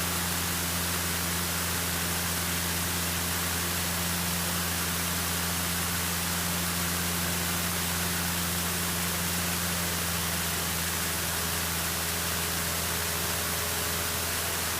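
Cessna 152's four-cylinder Lycoming engine and propeller droning steadily in level cruise flight, heard inside the cabin with a constant rushing hiss of air noise over it.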